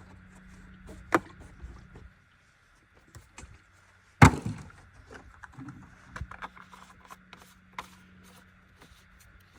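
A few scattered knocks and clanks, the loudest about four seconds in, over a faint steady low hum.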